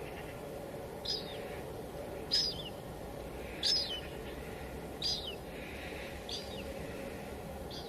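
Steady hiss of light drizzle falling on a window, with a bird calling over it: six short chirps, evenly spaced about every second and a half.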